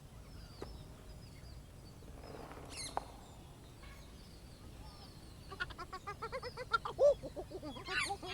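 Rainforest wildlife ambience: faint bird chirps at first, then from about halfway a dense chorus of fast, repeated frog croaks and calls that grows louder toward the end.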